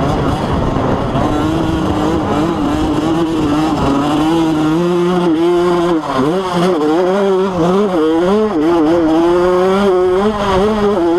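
Motocross bike engine running hard. Its revs hold fairly steady at first, then rise and fall quickly over and over in the second half as the throttle is worked.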